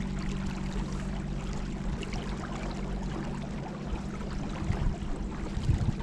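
River water splashing and gurgling around a boat under way, over a steady low hum, with a couple of low bumps near the end.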